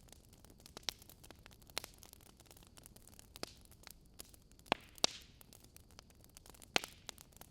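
Wood fire in a fireplace crackling, with irregular sharp pops over a soft steady hiss; two louder pops come close together about halfway through and another near the end.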